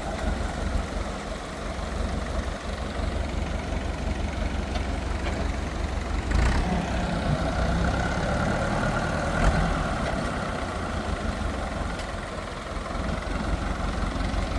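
Steady low rumble of an engine running, with a knock about six and a half seconds in and a sharp click about nine and a half seconds in.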